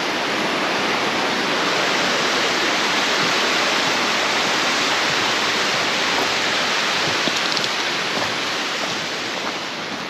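Steady rush of water cascading down a rocky mountain stream, fading slightly near the end.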